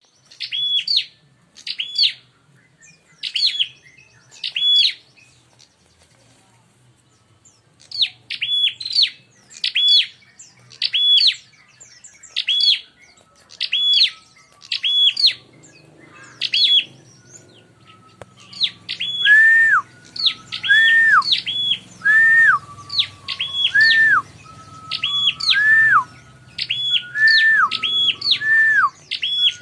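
Prinias (prenjak) calling in a rapid, insistent series of sharp high chirps, with a short lull early on. In the latter part a second, lower call that falls in pitch alternates with the high chirps, two birds answering each other as in an aggressive fighting exchange.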